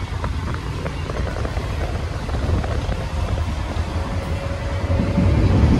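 Electric suburban train running at speed, heard from inside the carriage: a steady rumble of wheels on the track with wind buffeting the microphone, growing louder near the end.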